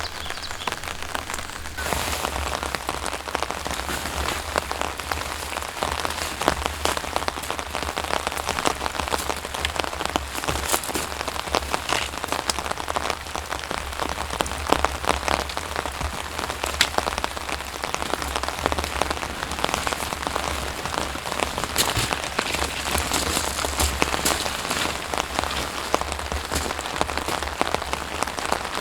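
Steady rain falling, with many sharp individual drop hits throughout.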